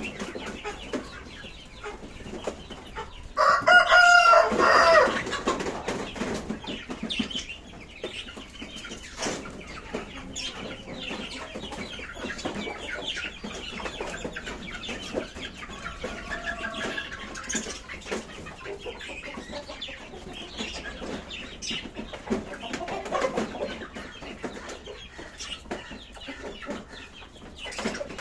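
A flock of lovebirds and budgies in a colony aviary, chattering and chirping continuously. About three and a half seconds in comes one loud, drawn-out call lasting over a second.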